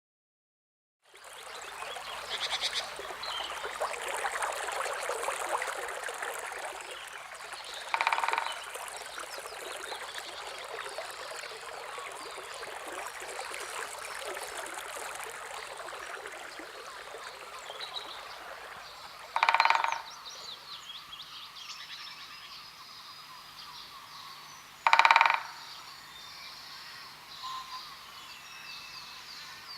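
Outdoor wildlife ambience: a dense, steady chorus of small animal calls, with three loud, short, harsh calls standing out about 8, 19 and 25 seconds in.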